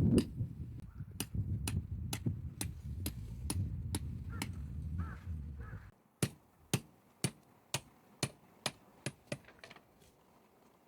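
A series of sharp knocks, like repeated hammer or hatchet strikes, at about two a second, coming closer together near the end. Background music with a beat plays under the first half and stops about six seconds in.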